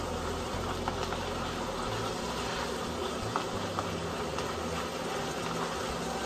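Ground beef sizzling as it fries in its own fat in a skillet, stirred with a spatula, with a few light clicks of the spatula against the pan.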